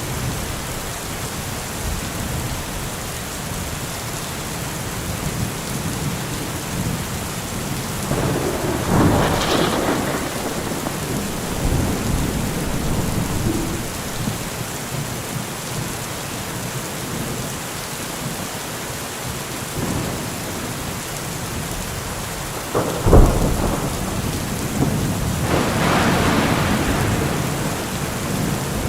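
Steady rain, with thunder rolling twice and a sharp, loud thunderclap late on.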